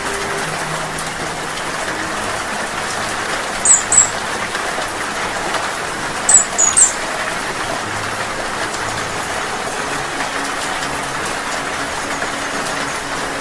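Steady rain falling, with short, very high-pitched hummingbird chirps: two about four seconds in and three more around six and a half seconds.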